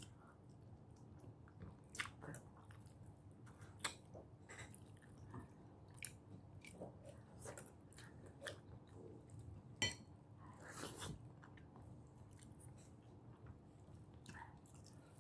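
A person chewing and eating soft food with the hands close to the microphone: faint wet mouth sounds with scattered smacks and clicks, a few of them louder.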